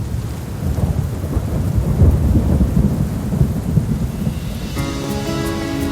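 Thunderstorm sound effect: low rolling thunder over steady rain. Near the end, music with sustained chords comes in over the rain.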